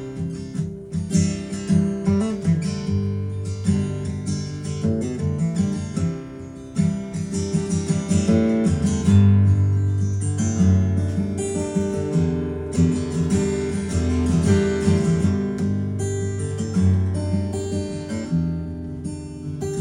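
Acoustic guitar strummed and picked in the instrumental opening of a song, with no singing yet.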